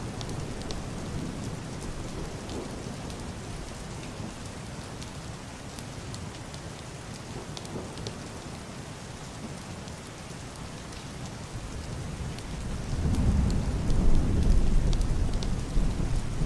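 Heavy rain on a roof and glass window, a steady hiss with scattered drop ticks. A deep, muffled thunder rumble swells in about three-quarters of the way through and is loudest near the end.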